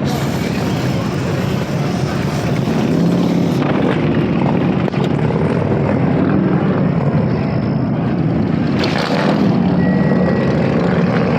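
Motorcycle engines running in a steady, continuous low rumble.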